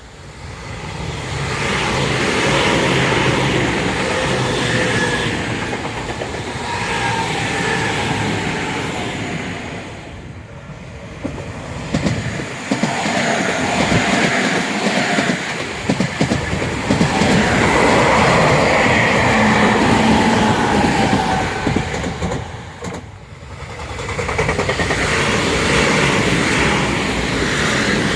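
Tobu Tojo Line electric trains passing, wheels clattering over the rail joints under a motor whine that glides in pitch. The sound dips briefly twice, about ten seconds in and again about twenty-three seconds in, then builds back up.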